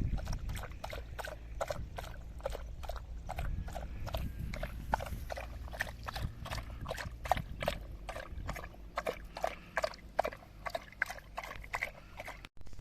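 Hoofbeats clip-clopping on hard ground at a steady walk, about three to four sharp knocks a second.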